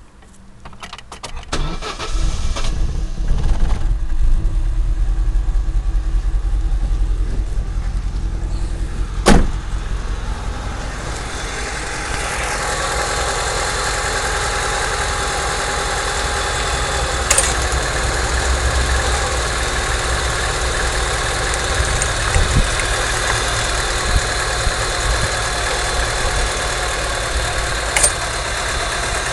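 Spark-ignition car engine started and then idling while its HT leads are pulled off. There is a sharp snap about nine seconds in, the sound turns hissier and brighter from about twelve seconds, and a few fainter clicks come later.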